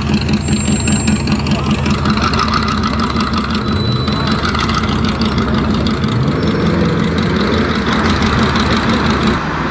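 A car engine idling with a steady low rumble, its tone shifting slightly around the middle.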